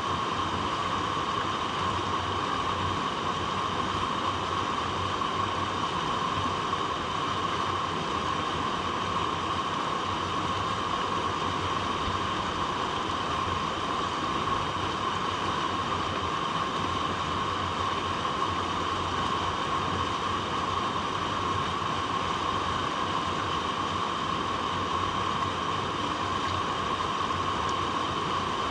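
Flowing stream water running over rocks, a steady, unbroken noise with no separate splashes or changes.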